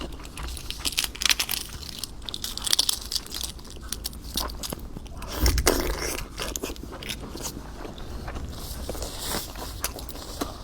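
A person chewing and biting food close to the microphone, with many short crunches and clicks and one louder crunch about halfway through.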